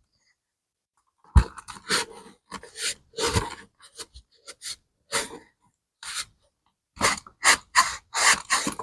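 Irregular short scrubbing strokes on a bag strap being cleaned, with a couple of soft thumps in the first few seconds.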